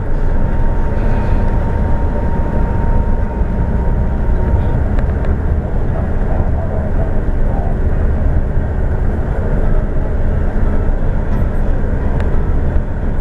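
Scania K360iB coach in motion, heard from inside the cabin: a steady engine and road rumble.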